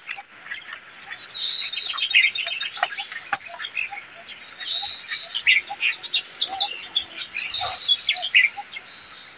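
Birds chirping, with many short calls and a higher phrase that repeats about every three seconds.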